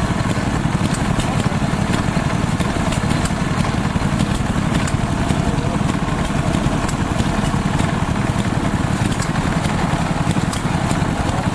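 Early gasoline-powered Maytag washing machine running, its small single-cylinder two-stroke engine chugging steadily with light ticks of the washer mechanism over it.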